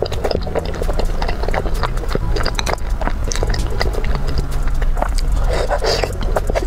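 Close-miked wet chewing and mouth smacking of dumplings in chili oil: rapid, irregular sticky clicks and squelches, over a steady low hum.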